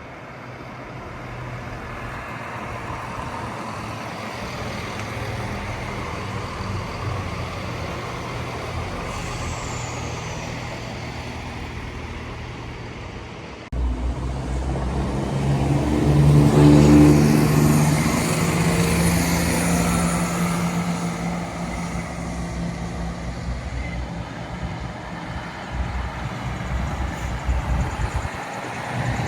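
Diesel train at a station, growing louder as it approaches. About halfway through, its engine comes in with a strong, steady low drone. It is loudest a few seconds later, then eases slightly.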